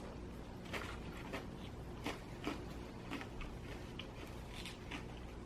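Chewing pizza up close: soft, irregular wet clicks and small crunches a few times a second.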